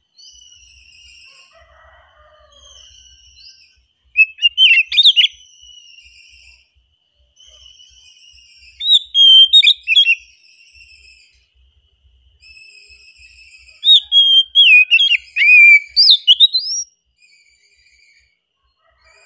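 Oriental magpie-robin (kacer) singing: three loud bursts of fast, varied whistled phrases, with softer repeated whistled notes between them.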